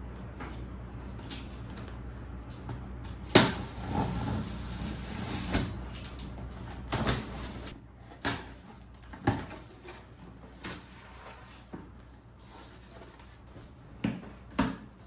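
The mixer grinder's cardboard box being opened and handled: scattered knocks and taps with some rustling, the loudest a sharp knock about three seconds in.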